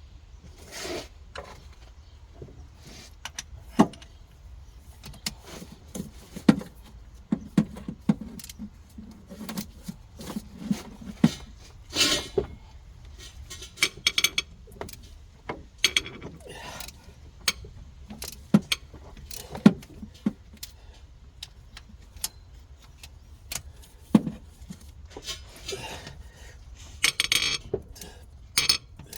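Irregular metallic clinks, taps and knocks of hand tools and loose engine parts being handled while the camshafts are removed from a Ford 3.0L EcoBoost V6. There is a brief scraping rustle about twelve seconds in and again near the end.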